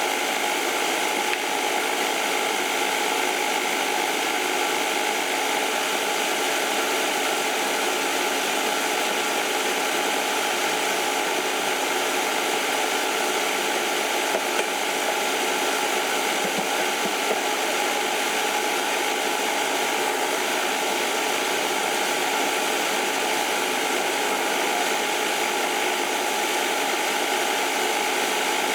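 A machine running steadily: a constant rushing noise with a fixed hum, unchanging in level and pitch.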